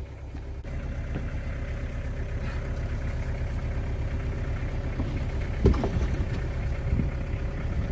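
Vehicle engine running steadily with a low hum, and a single thump a little over halfway through.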